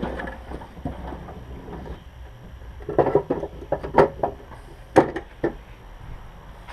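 Hand tools clattering and knocking as someone rummages through a container for a pair of cutters. There is a cluster of sharp knocks about three to five and a half seconds in, over a low steady rumble of wind.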